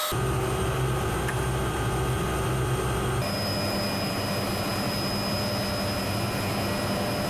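MD500 helicopter running in flight: a steady turbine and rotor sound with a constant whine. The sound changes abruptly about three seconds in, as if from one shot to another.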